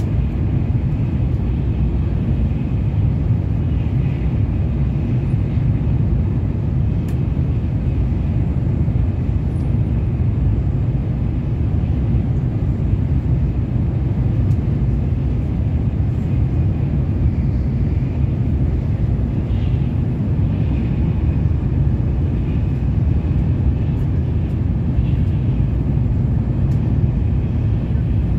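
Steady low rumble of a Shinkansen bullet train running at speed, heard inside the passenger cabin, with a faint high-pitched whine over it.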